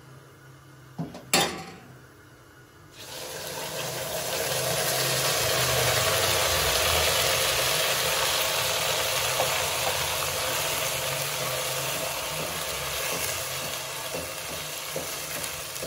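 A milk, egg and semolina batter hitting a pot of hot desi ghee and jaggery, sizzling from about three seconds in. The sizzle swells over a few seconds and then holds steady as it is stirred. A sharp knock comes about a second in.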